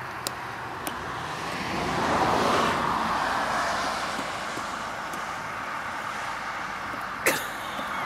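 A car passing on the road, its noise swelling to a peak about two seconds in and then fading slowly. A few faint sharp taps sound in the first second, and a short sharp sound comes about seven seconds in.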